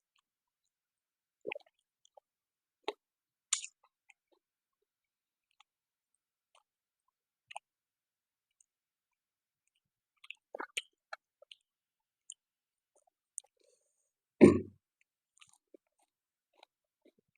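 Close-up eating sounds: a person chewing, with scattered short wet clicks and crunches and long quiet gaps between them. One louder, deeper thump comes about three-quarters of the way through.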